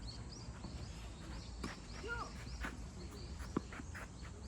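Rally sounds on a tennis court: a run of short high chirps in the first half, and sharp knocks of a tennis ball, the clearest about three and a half seconds in.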